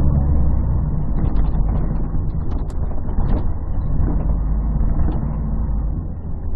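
Interior sound of a 1998 Scania CN113CLL city bus on the move: its Scania DSC 11.71 diesel engine and Voith D863.3 automatic gearbox giving a steady low drone, which eases off slightly about half a second in. The phone's partly covered microphone makes the recording muffled and bass-heavy.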